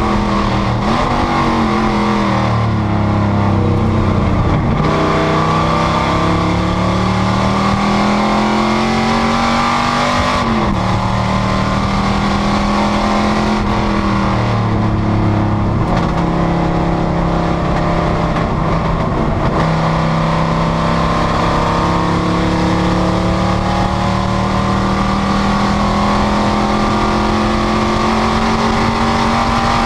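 Panoz GTS race car engine at racing speed: its note falls away twice under braking, climbs long and steadily under full throttle, and steps down sharply at gear changes about ten and twenty seconds in.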